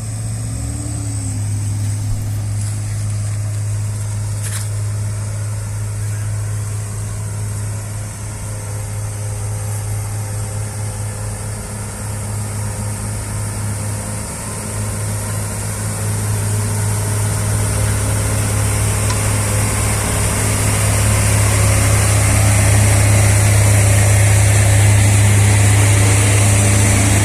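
Vehicle engine running at a steady pitch while working through a mud bog. It grows louder over the second half, with a rising hiss on top.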